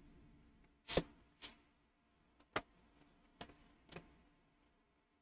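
A few scattered clicks and taps from a computer mouse and keyboard, about five over several seconds, the loudest about a second in.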